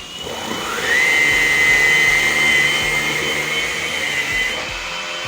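Hoover ONEPWR Blade+ cordless stick vacuum running, with a second motor spinning up about a quarter second in: a rising whine that settles into a steady high whine after about a second, over a higher whine that is already running. The newer whine fades out near the end.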